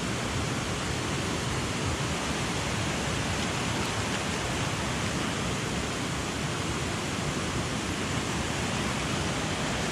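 A mountain stream rushing steadily, an even wash of water noise.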